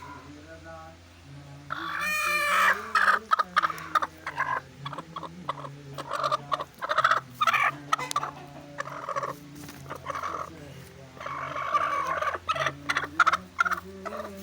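Poultry calling: one loud, drawn-out call about two seconds in, then a run of short, irregular calls, over a steady low hum.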